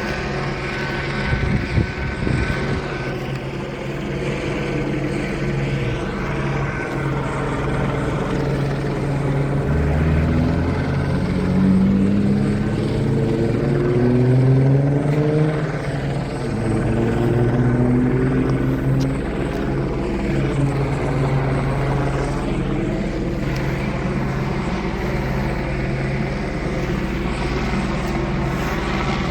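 Police helicopter hovering overhead with a steady low blade drone. Around the middle, a passing vehicle's engine climbs in pitch twice over about ten seconds.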